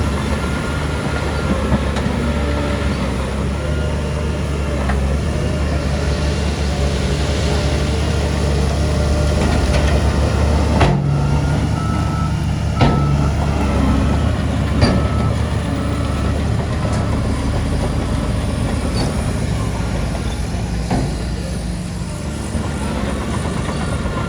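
Heavy diesel earthmoving machinery running steadily with a low engine drone. Around the middle, a reversing alarm beeps repeatedly for several seconds, and three sharp metal clanks sound.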